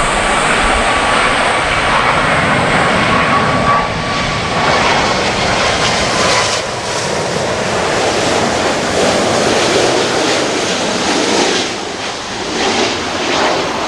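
Boeing 777 twin jet engines during the landing, a steady loud jet noise with a thin high whine that fades about six seconds in.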